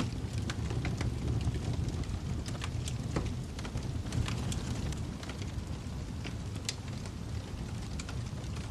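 Wood fire crackling in a fireplace: a steady low rumble of burning with scattered sharp pops and snaps at irregular intervals.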